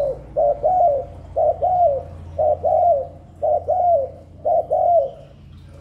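Spotted dove cooing: five short two-note coos about a second apart, stopping near the end, over a faint low hum.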